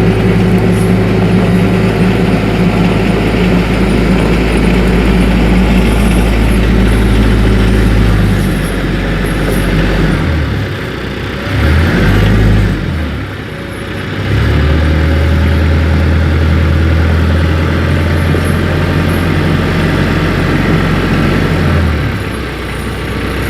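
TYM 474 compact tractor's diesel engine running steadily under way; its note shifts and dips for several seconds in the middle as it changes speed, then holds steady again and falls away near the end.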